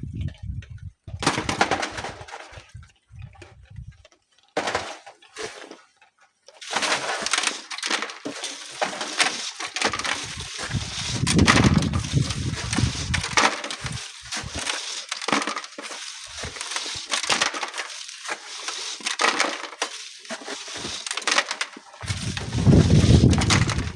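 Sand and gravel being dug and sieved by hand: gritty scraping with stones clinking and rattling, after a few quieter seconds at the start. Gusts of wind rumble on the microphone, once around the middle and again near the end.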